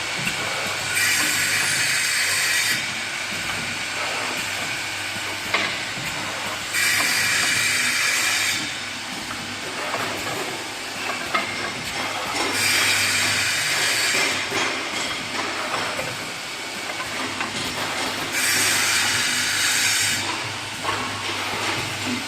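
Industrial cutting and horizontal drilling machine running in repeated cycles: a steady low hum, with a loud hissing burst of about two seconds roughly every six seconds, four times.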